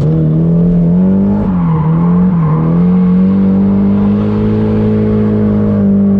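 Nissan 240SX drift car's engine running hard at high revs, dipping and climbing again twice, then held high and steady.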